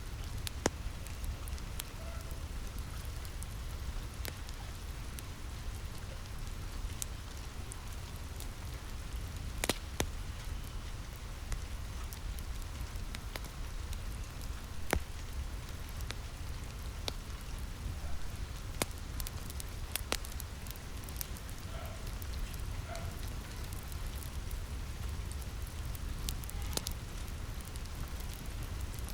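Steady rainfall with a wood fire crackling, sharp pops scattered irregularly throughout, the loudest about ten seconds in and again about fifteen seconds in.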